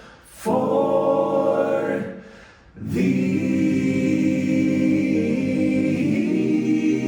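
Men's voices singing a cappella in close harmony, holding long chords with a short breath at the start and a longer one about two seconds in, the chord shifting near the end.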